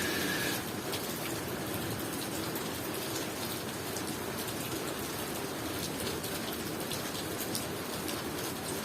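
Steady tropical rain falling, with many separate drops pattering on a surface.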